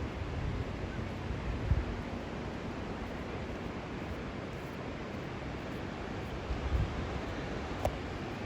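Steady rushing noise of an approaching tidal bore's water, with wind buffeting the microphone in low gusts about two seconds in and again near the end.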